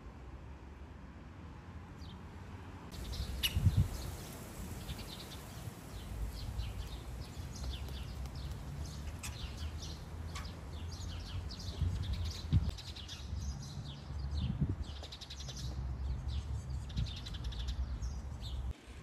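Small birds chirping and calling in a busy outdoor chorus of quick, high chirps, starting about three seconds in, over a steady low rumble with a few louder low thumps.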